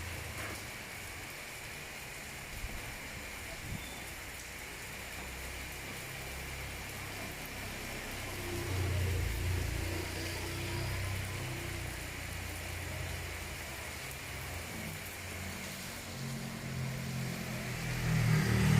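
Steady rain falling, with the low hum of motor vehicles going by; a louder engine approaches near the end, rising in pitch.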